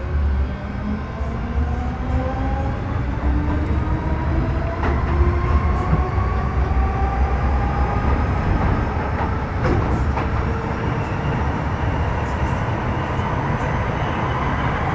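Running sound inside an MTR Metro Cammell M-Train with GEC GTO chopper traction, pulling away and gathering speed. Several whine tones rise steadily in pitch over a low rumble from the motors and wheels, with a few sharp clicks about five and ten seconds in.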